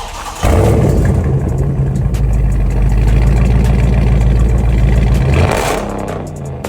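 Car engine with a loud exhaust held at steady revs for about five seconds, starting and stopping abruptly.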